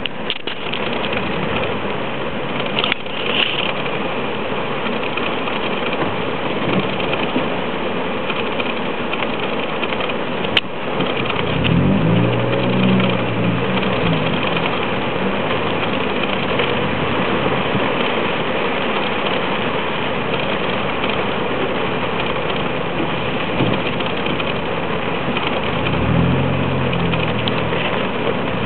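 Heavy rain drumming steadily on a car's roof and windscreen, heard from inside the cabin, with a low vehicle engine hum that swells twice: about twelve seconds in and again near the end.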